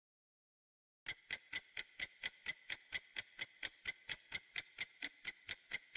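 Clock ticking sound effect, starting about a second in and going on at an even pace of about four ticks a second.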